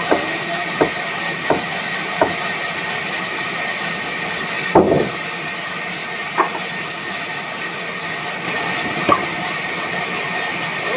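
A machine running steadily with a faint high whine, punctuated by sharp knocks: four evenly spaced in the first two seconds, a louder one near the middle, and two more later.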